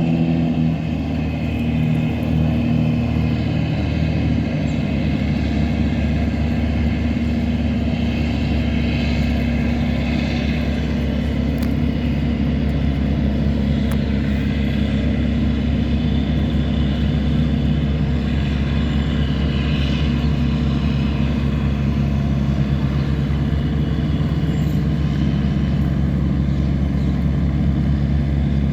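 Tugboat's diesel engine running steadily under load while towing a cargo barge.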